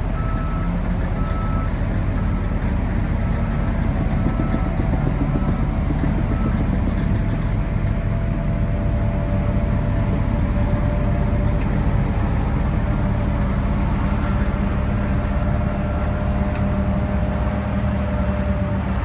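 Shantui DH17C3Pro bulldozer's diesel engine running steadily under load, with a reversing alarm beeping about twice a second for the first six seconds or so and again more faintly near the end.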